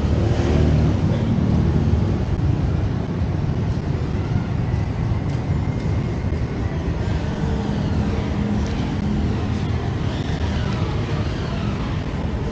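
Street traffic: a steady low rumble of vehicles, with fainter higher sounds passing over it.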